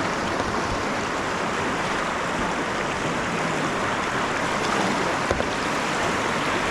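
River water rushing steadily, an even wash of moving whitewater.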